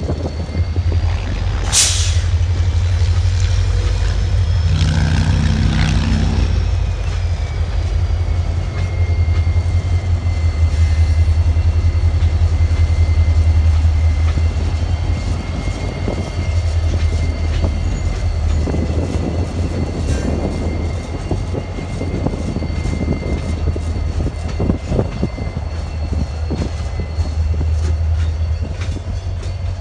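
Switching train of empty flatcars rolling slowly past, followed by CSX SD40-3 diesel locomotives with their EMD two-stroke V16 engines running: a steady low rumble with a sharp clank about two seconds in and a thin, steady high tone over it.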